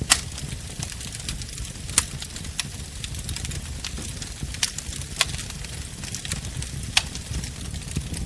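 Wood bonfire crackling: a constant patter of small crackles with several sharp, loud pops as the burning wood snaps, over a low steady rumble of the flames.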